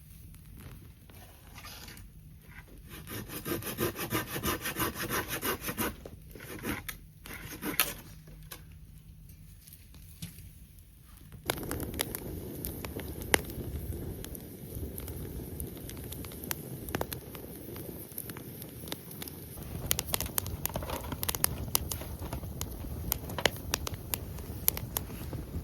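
Rhythmic scraping strokes of a hand saw cutting firewood for a few seconds. Then, about eleven seconds in, the sound changes abruptly to a steady campfire crackle with sharp pops.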